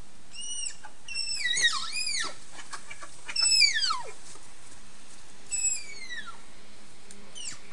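An animal's high whistled calls, about six in a row at uneven intervals, each sliding steeply downward in pitch.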